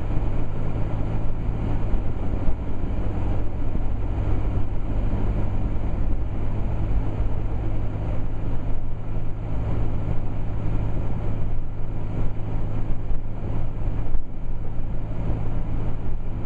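Steady engine and road noise heard from inside the cabin of a four-wheel-drive vehicle driving on a snowy road, with a constant low hum.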